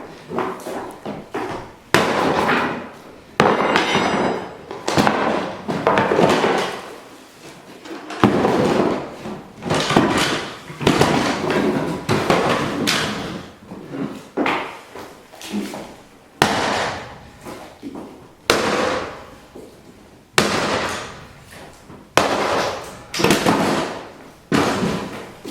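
Boxes being smashed and broken apart: a long run of loud crashing impacts, one every second or two, each trailing off in a short clatter.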